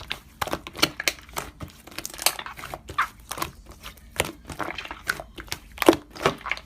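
Slime being pressed and squished by hand, giving irregular crackling clicks and pops.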